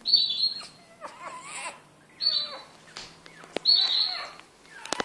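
Two-week-old puppies whimpering and squealing in short, high-pitched cries, a few times, with a couple of sharp clicks near the end.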